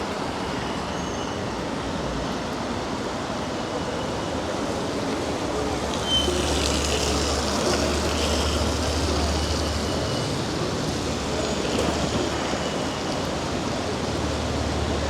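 Road traffic on a wet city street in the rain: a steady hiss, with a passing vehicle's low rumble swelling about six seconds in and again near the end.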